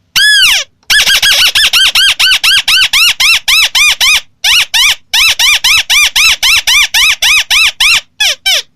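White-browed crake calling: one long arched note, then fast runs of nasal arched notes at about five a second with a short break near the middle, ending in a few falling notes.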